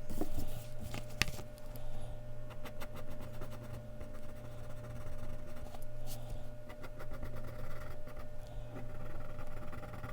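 Mechanical pencil scratching across Bristol paper in quick, short strokes, with a sharper tap about a second in, over a steady low hum.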